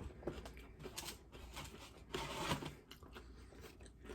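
Chewing and crunching a crisp fried tostada shell, a slightly burnt one, in irregular faint crunches, with a denser run of crunching about two seconds in.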